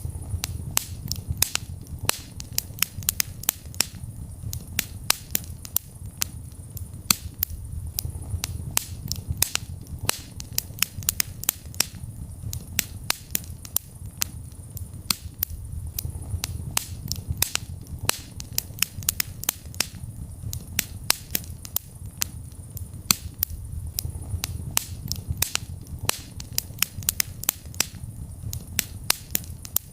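Wood fire burning in a fireplace: frequent sharp crackles and pops, several a second, over a low steady rumble of the flames.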